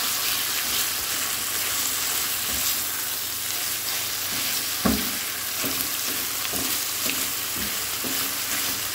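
Marinated chicken pieces sizzling steadily in an oiled non-stick pan over a medium flame, while a silicone spatula stirs and scrapes through them. Occasional soft knocks of the spatula against the pan, one louder about five seconds in.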